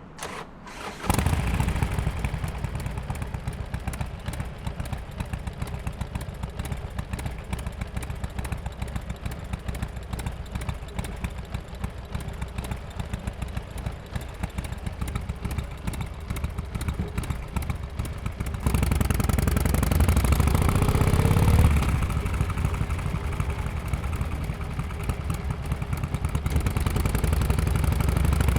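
Harley-Davidson XL1200X Forty-Eight's air-cooled V-twin with an aftermarket muffler, catching about a second in and then idling with an uneven, loping beat. About two-thirds through it runs louder, with a short throttle blip.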